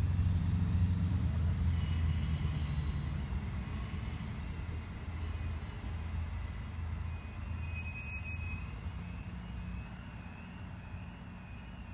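Class 158 diesel multiple unit pulling away, its underfloor diesel engine drone fading as it recedes. Three short bursts of high-pitched wheel squeal come about two to five seconds in as it runs along the curve, and a faint wavering high tone sounds in the background near the end.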